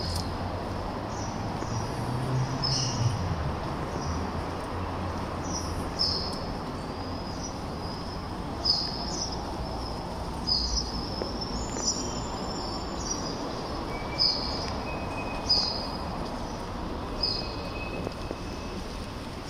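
A bird chirping over and over, one short high call every two seconds or so, over a steady background hum.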